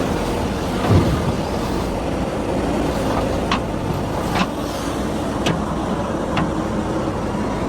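Diesel tractor engine running steadily, with a few short sharp clicks through the middle.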